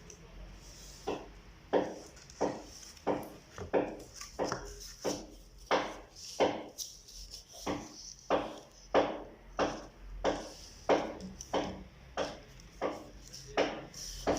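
Wood being worked by hand in a steady rhythm of short strokes, about one and a half a second, starting about a second in.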